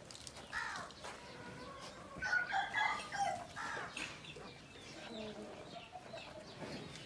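Birds calling, with short pitched calls and a loud burst of them about two to four seconds in.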